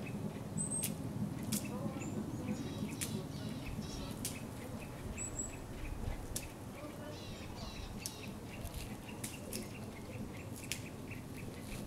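Small forest birds calling: short high chirps and sharp clicks scattered through, over a faint regular ticking about four times a second and a low rumble.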